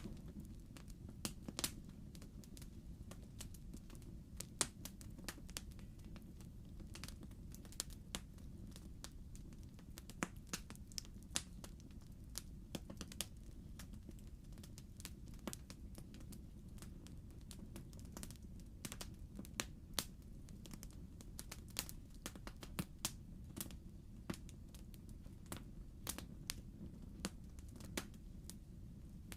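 Fireplace crackling: irregular sharp pops and snaps, several a second at times, over a steady low rumble.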